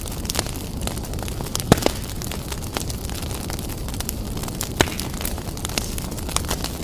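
Wood fire burning vigorously in a fireplace: a steady low rumble with frequent sharp crackles and pops, the loudest pops about two seconds in and again about five seconds in.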